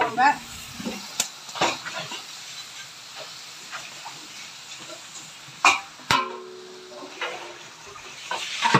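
Onion-and-tomato masala sizzling steadily in a large aluminium biryani pot as spice powder is tipped in, with a few sharp knocks.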